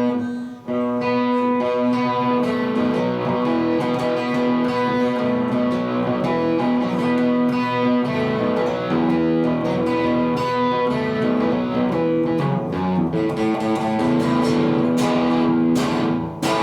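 Epiphone Les Paul electric guitar, freshly re-fretted with stainless steel frets, played as a test: a run of single-note lead lines in the higher register, the notes ringing and sustaining. There is a brief break just after the start.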